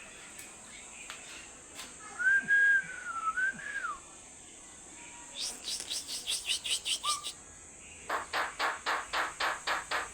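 A talking bird whistling one clear, wavering note for about two seconds, then giving two runs of rapid, evenly repeated chattering calls, about six a second.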